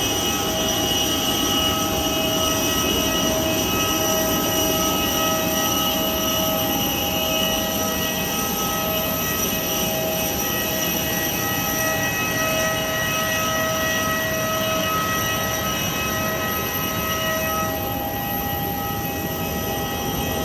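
Steady noise of a jet airliner at the gate: a constant rush with several high, steady whining tones layered over it. The whine shifts slightly near the end.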